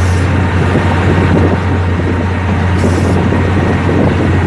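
Passenger train running, heard inside the carriage: a steady low hum over a broad rumble, with two brief hissy rushes near the start and about three seconds in.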